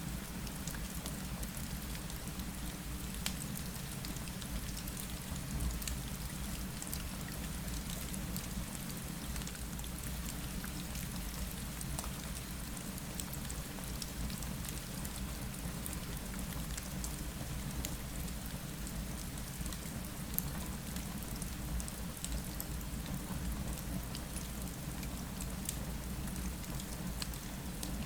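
Steady rain falling against a window, with scattered sharp ticks of drops and a low, even rumble underneath.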